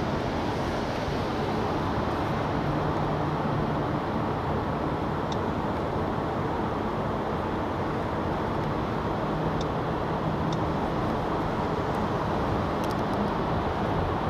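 Steady tyre and wind noise of a 2021 Mercedes-Benz S580 cruising at highway speed, heard from inside the cabin, with a low engine hum that swells a couple of times.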